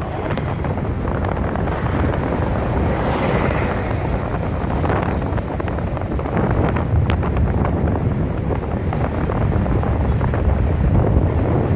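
Strong wind buffeting the microphone: a loud, steady rumble with scattered crackles.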